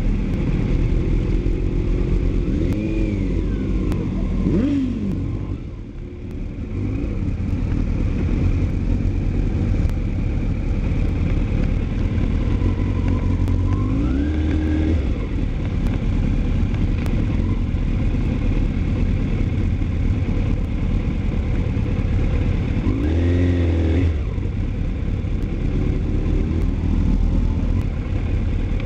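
Motorcycle engine running under way over a steady low rumble, its pitch rising as it revs up and then dropping, three times.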